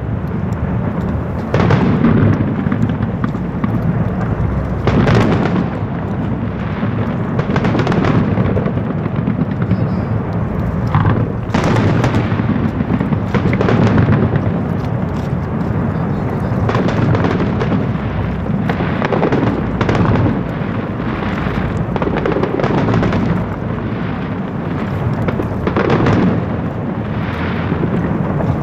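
Aerial fireworks display: shell bursts and booms going off one after another, many overlapping, over a constant low rumble with no pause.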